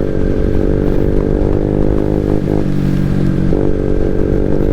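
Motorcycle with an aftermarket full exhaust running at a steady engine speed while riding, its exhaust note holding one pitch, with a brief change a little past halfway. The rider says the exhaust is leaking, which he takes to soften its sound.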